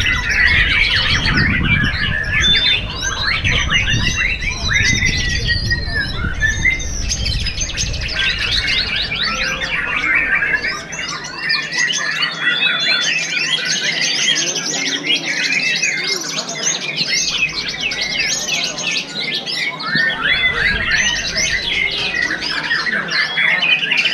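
White-rumped shama (murai batu) singing a dense, unbroken run of fast, high chattering notes, trills and quick pitch swoops.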